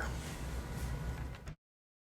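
Steady low background hum with a faint hiss, cutting off abruptly into complete silence about one and a half seconds in.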